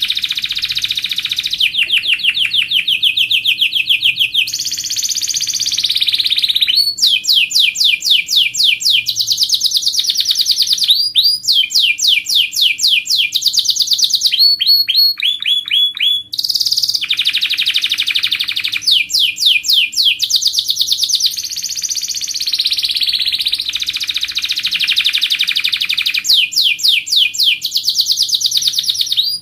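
Canary singing continuously: a string of rapid trills, each phrase a fast run of identical repeated notes lasting a second or few before the bird switches to a new phrase.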